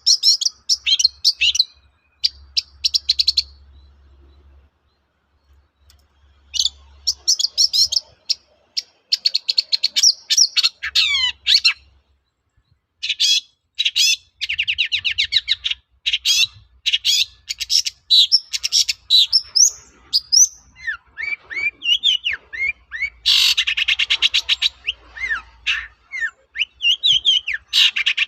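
Long-tailed shrike (cendet) singing a fast, chattering song of rapid chirps and buzzy trills, in phrases broken by short pauses.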